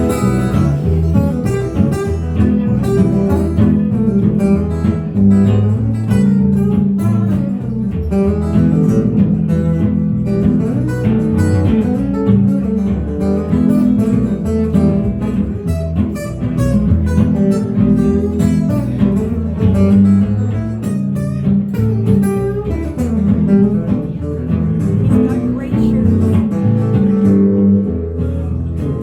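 Instrumental break in a band's song, led by guitar.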